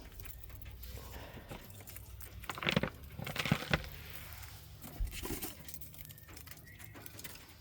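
Rustling and crinkling of a bag of dried bug treats being handled, with a few sharper crackles about three seconds in and once more about five seconds in.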